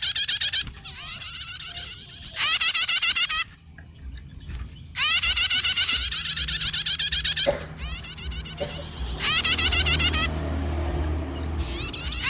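Prenjak (prinia) chattering song: loud, very fast runs of repeated high notes in bursts of one to two seconds, broken by short quieter gaps, over and over.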